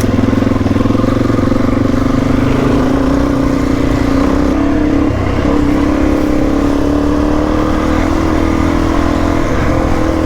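Suzuki DR-Z400E single-cylinder four-stroke engine running steadily under way. The engine note dips briefly about halfway through and shifts again near the end.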